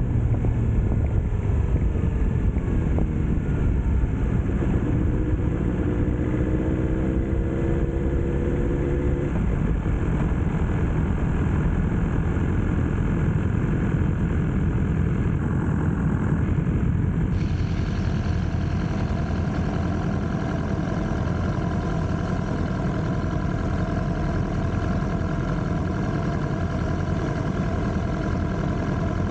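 BMW S1000R motorcycle's inline-four engine running steadily. Its pitch rises briefly a few seconds in, and from a little past halfway it holds an even, steady tone.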